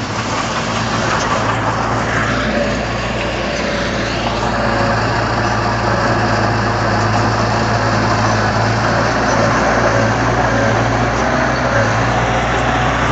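Heavy diesel engine running steadily at constant speed, with a steady low drone throughout.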